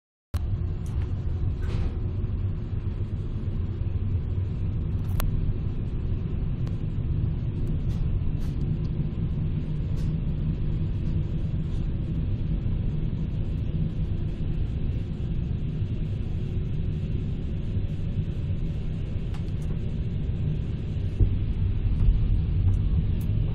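Steady low rumble of a passenger train carriage running slowly on the track, heard from inside, with a few faint clicks. It grows a little louder near the end.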